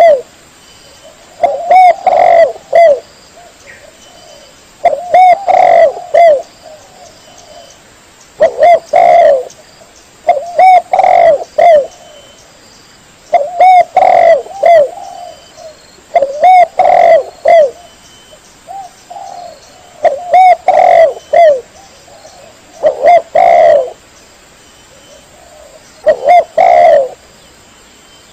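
Spotted dove (tekukur) cooing: short phrases of a few coos, repeated about every three seconds, about nine times.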